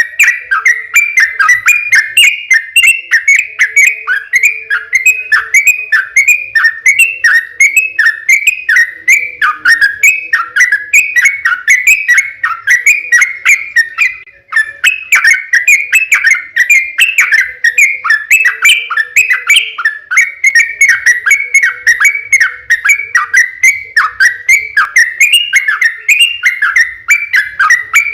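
Yellow-vented bulbul (trucukan) singing a long, continuous run of quick chirping, whistled notes, a few per second. There is a brief break about fourteen seconds in.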